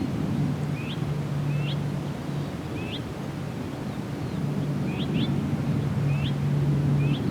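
A songbird repeating a short rising chirp about once a second, sometimes doubled, over a steady low engine drone that is the louder sound.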